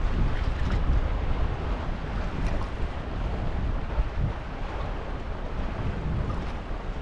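Howling wind gusting over the microphone: a rushing noise with a heavy low rumble that swells and eases.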